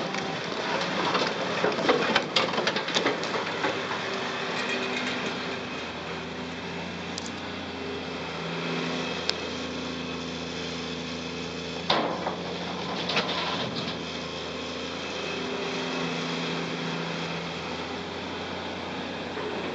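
Caterpillar 330C excavator's diesel engine running, its pitch rising and falling with the hydraulic work, with clattering knocks of concrete rubble during the first few seconds and a single sharp knock about two-thirds of the way through.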